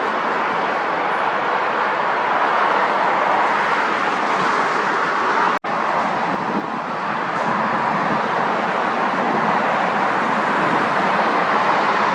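Steady roar of jet aircraft engines, with the sound dropping out for an instant about five and a half seconds in.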